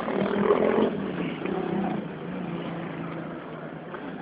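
A car engine running steadily, with a louder, busier patch in the first second.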